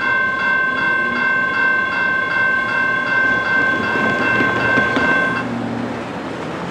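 Railroad crossing bell ringing rapidly, about two and a half strokes a second, over the rumble of a passing freight train; the bell cuts off suddenly about five and a half seconds in, as the crossing clears.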